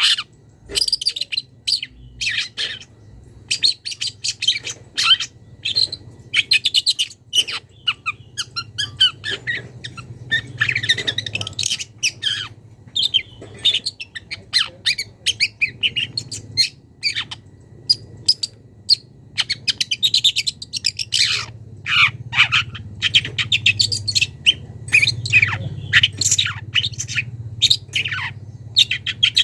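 Young long-tailed shrike (cendet) singing a rapid, nearly unbroken string of short notes with some steeply falling slurs, working mimicked calls of other birds into its song.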